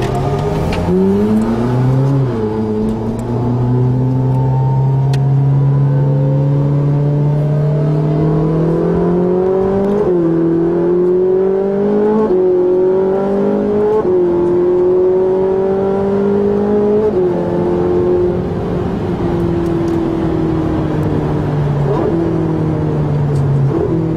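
Ferrari 458 Italia's V8 heard from inside the cabin, accelerating hard on track: the engine note climbs and drops back at each quick upshift, then eases off in the last several seconds as the car slows.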